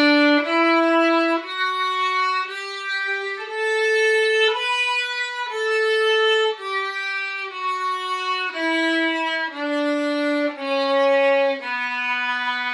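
Violin playing a one-octave B natural minor scale in bowed notes of about a second each, with a C sharp as its second degree. It climbs to the upper B about five seconds in, then steps back down and ends on the low B.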